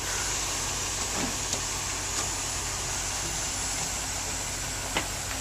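GM 8.1-litre gasoline V8 of a medium-duty dump truck idling steadily. A faint click near the end.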